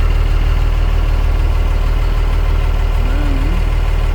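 Boat engine running steadily, a low, even drone with a fast regular pulse.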